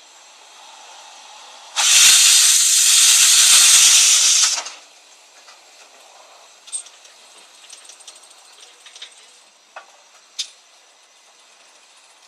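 Steam locomotive letting off steam: a loud hiss starting suddenly about two seconds in and lasting about three seconds, then cutting off, followed by a few small clicks and knocks.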